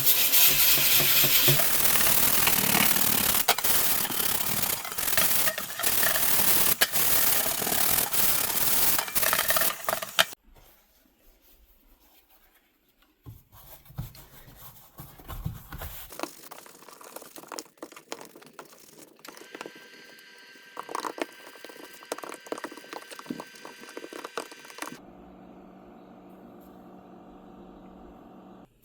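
Loud scraping on a rusted steel license plate for about ten seconds as the rust is worked off. After a short pause come quieter, uneven scraping and handling sounds, and a low steady hum in the last few seconds.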